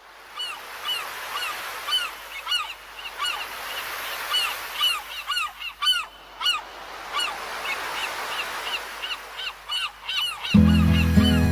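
Seagulls calling over and over, short arched cries overlapping one another. Music with harmonica comes in loudly near the end.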